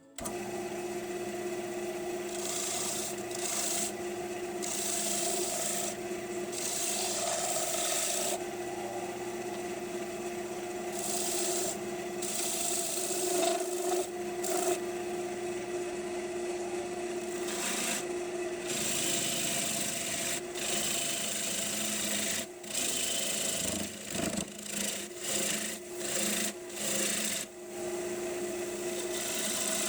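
Wood lathe running with a steady hum while a turning tool cuts into a spinning piece of green maple, giving repeated bouts of scraping and hissing. In the last third the cuts come as short bursts with brief breaks between them.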